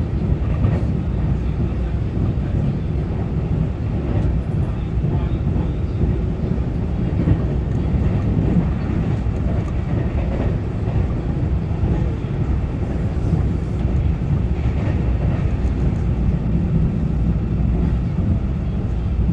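Inside a Taiwan Railway EMU900-series electric commuter train running at speed between stations: a steady, even rumble of wheels on rail and running gear.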